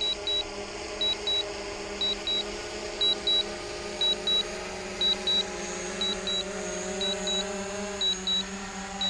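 Drone remote controller beeping in pairs of short high beeps about once a second, its low-battery warning, over the steady hum of the quadcopter's propellers hovering overhead.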